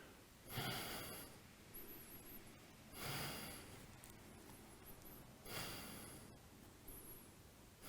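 Slow, faint breathing while holding a yoga pose: three breaths about two and a half seconds apart.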